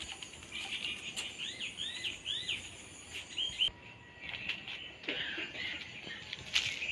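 Birds chirping and calling, with three arching whistled notes in a row about a second and a half in, over a faint steady high background.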